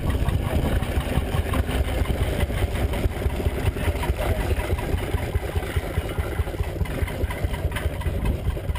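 1921 Lanz Bulldog's 12 hp, 6-litre single-cylinder hot-bulb semi-diesel two-stroke engine running with a steady, rapid rhythmic beat.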